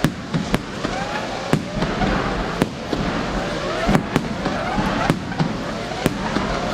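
Aerial fireworks display: shells bursting with sharp bangs about once or twice a second, over many overlapping whistling effects gliding in pitch.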